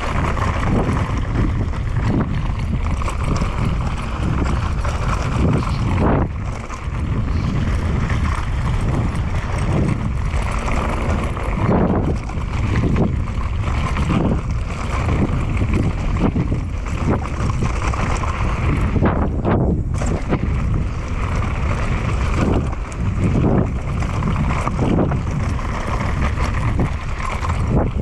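Mountain bike riding fast down a dirt trail. Wind buffets the microphone over a steady rumble of tyres and drivetrain, with frequent irregular thumps and rattles as the bike hits bumps.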